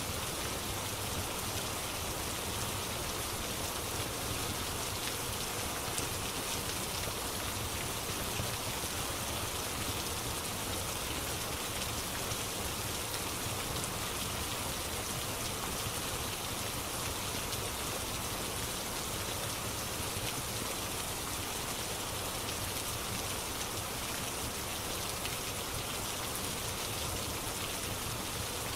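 Steady rain, an even hiss of drops falling on a surface, with a few faint crackles.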